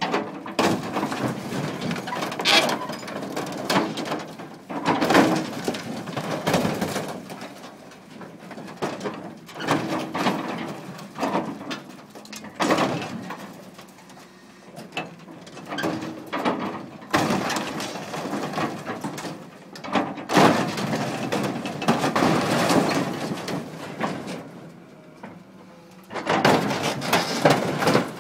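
Combine harvester's sheet-metal body being crushed: irregular creaking, scraping and crunching of metal in bursts of a second or two, with short lulls between.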